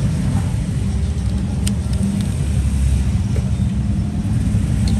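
Steady low rumble of road traffic in the background, with a single sharp click about a second and a half in.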